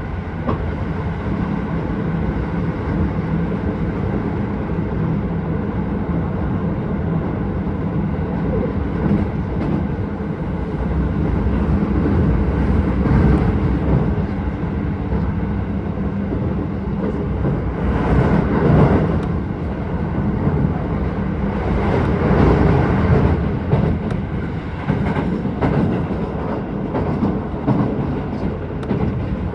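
Keisei 3000 series electric train running at speed, heard from inside the car: a steady rumble of wheels on rail with light clatter over the rail joints. It gets louder for a second or two about two-thirds of the way through, and again shortly after.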